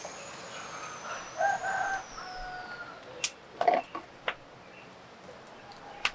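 Birds calling: a long high thin whistle, then a few short pitched calls. About three to four seconds in there are several sharp knocks or clicks, and one more near the end.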